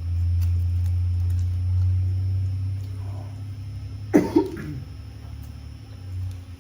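A low steady hum for most of the stretch, fading after about three seconds, then a person coughing twice in quick succession about four seconds in.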